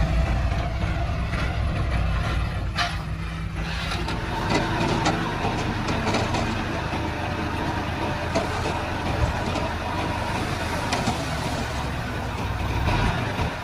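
Komatsu D31-P crawler bulldozer's diesel engine running steadily while working, with scattered clanks and rattles over the rumble.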